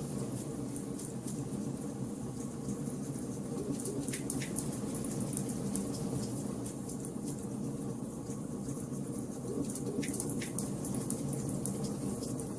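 Wood fire burning in a fireplace: a steady low rumble of flames with constant fine crackling and a few sharper pops of the logs, stronger around four and ten seconds in.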